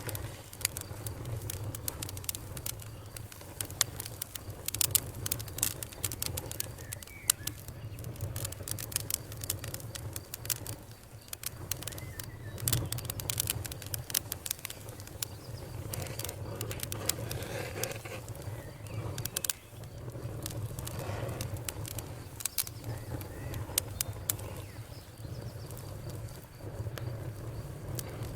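Campfire crackling: dense, irregular snaps and pops of burning wood, a few sharper than the rest, over a steady low rumble.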